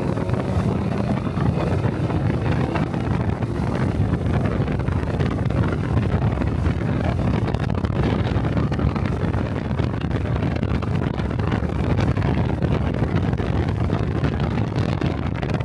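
Honda Cub 125 cc single-cylinder motorcycle engine running at a steady cruise, with wind rushing over the microphone.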